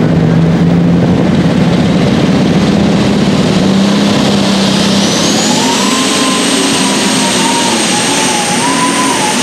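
Super stock pulling tractor's engine running hard, with a turbocharger whine that rises about halfway through and then holds at a high pitch.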